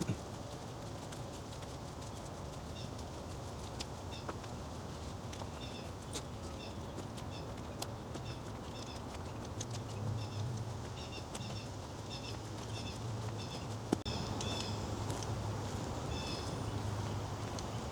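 A woodland bird calling with short, repeated chirps, often in twos or threes, growing busier in the second half. Under it run a low rumble and a few sharp clicks.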